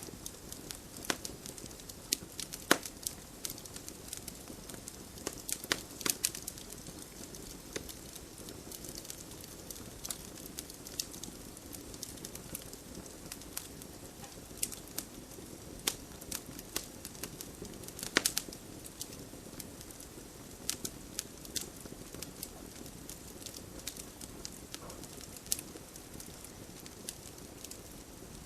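Wood campfire crackling, with irregular sharp snaps and a few louder pops over a steady low hiss.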